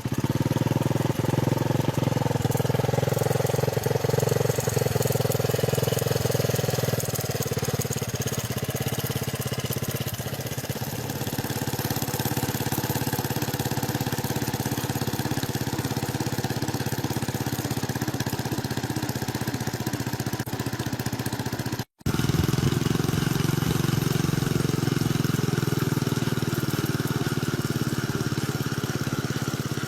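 Engine of a homemade helicopter running steadily, with a brief dropout about two-thirds of the way through.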